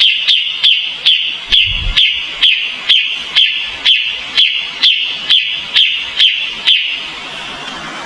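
Kapas tembak songbird calling a fast, even series of sharp downward-sweeping notes, about two a second, that stops near the end.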